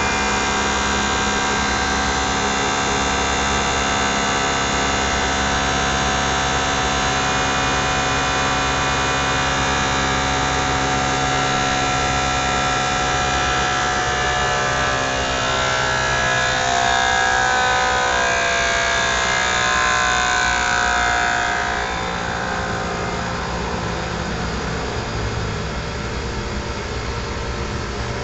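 Blower motor running steadily with a whine of several tones. From about halfway the pitch wavers and the sound grows a little louder, then eases slightly quieter a few seconds before the end.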